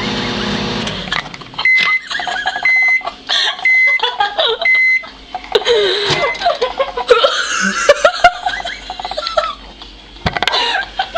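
Microwave oven running with a steady hum that stops about a second in, then four short high beeps about a second apart signalling the end of the heating cycle.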